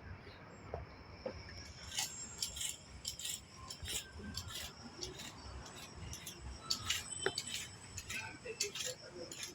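A cat eating: irregular quick crunches and clinks that begin about two seconds in and keep going.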